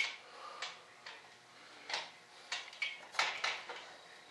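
Irregular clicks, rattles and clanks of metal parts on a new table saw being handled and worked while it is set up, with a cluster of quick clatters about three seconds in.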